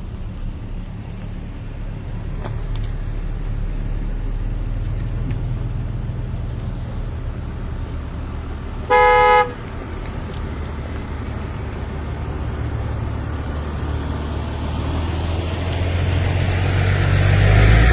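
A motor vehicle's engine runs with a steady low rumble, and a car horn gives one short honk about halfway through. The rumble grows louder near the end.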